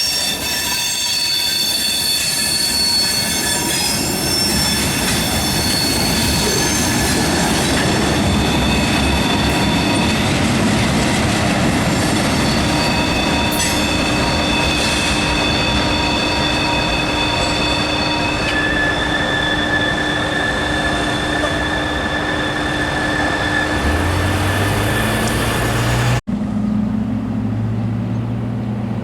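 Train passing over the rails with its wheels squealing: several steady high-pitched squeals over the rumble and clatter of the cars, fading out after about 18 seconds. Near the end a low steady hum comes in, and the sound breaks off abruptly about 26 seconds in before the hum carries on.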